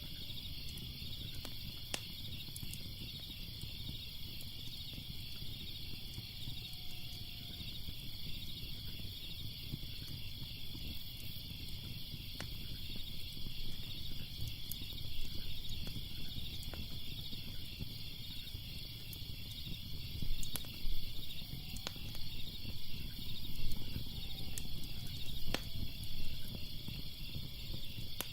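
Crickets chirping in a steady, rapidly pulsing chorus over a low fire rumble, with sharp crackling pops now and then, a few louder ones in the last third.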